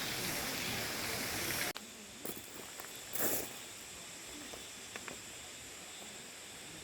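Steady rushing of a mountain valley stream that cuts off suddenly under two seconds in, leaving a quiet outdoor background with a few light ticks and one brief rustle.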